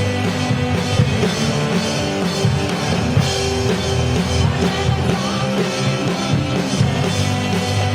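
Rock band playing live, with drum kit, electric guitars and bass and no singing heard.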